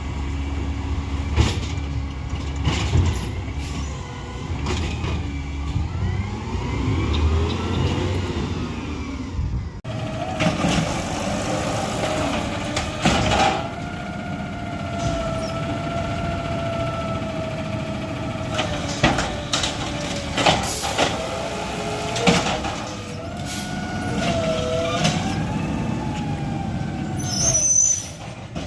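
Garbage trucks at work. First a truck's engine runs with a low rumble and revs up and down. About ten seconds in the sound changes abruptly to a steady, slightly wavering whine with several sharp knocks and clanks.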